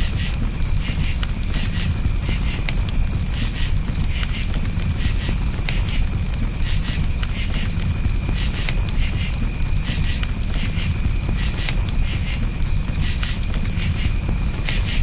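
Crickets chirping in repeated pulsing trills over a steady low rumble of a campfire, with scattered sharp crackles from the burning wood.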